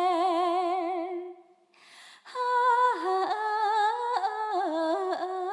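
A woman singing unaccompanied in Khmer, a slow song with long held notes and wide vibrato. She breaks off about a second and a half in, then sings on.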